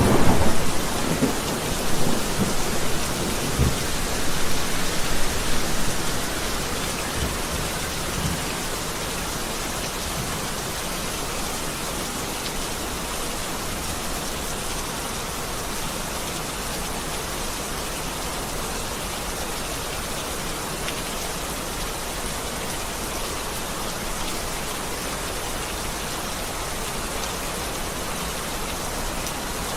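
Heavy rain falling steadily, with a rumble of thunder rolling through the first several seconds before dying away to rain alone. Another thunderclap breaks right at the end.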